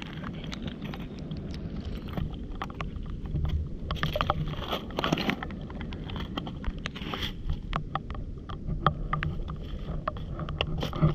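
Irregular clicks and knocks of stones, brick and debris being shifted by hand while searching the mud, over steady low background noise.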